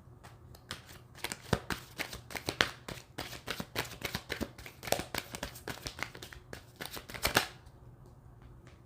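A deck of tarot cards being shuffled by hand: a quick, uneven run of card snaps and slaps that stops about a second before the end.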